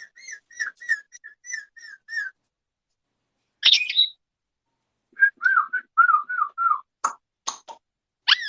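Parrot whistling: a quick run of about ten short chirpy whistle notes, then a single louder call, then a run of six falling whistle notes. A few sharp clicks and another short call follow near the end.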